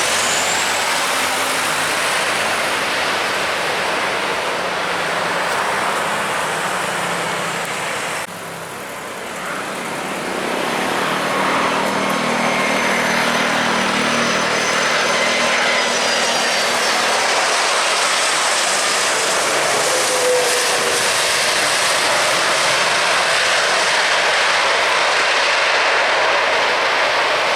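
Jet airliner engine noise, a loud steady rush with faint high whining tones and a low hum. The level drops sharply about eight seconds in and builds back up over the next two seconds.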